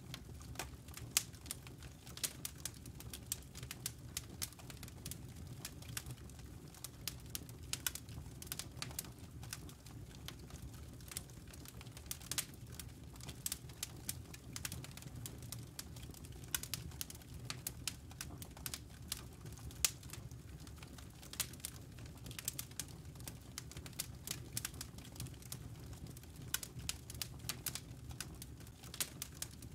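Wood logs burning in a fireplace: irregular crackles and pops over a steady low rumble of the fire.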